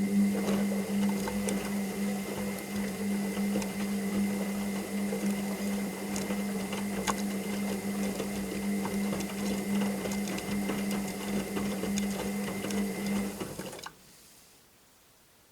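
Washing machine motor turning the drum: a steady hum with light rattling and clicks, which stops near the end.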